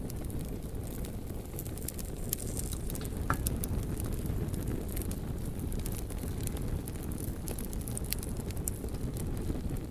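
Wood fire burning with a low steady rumble and frequent sharp crackles and pops.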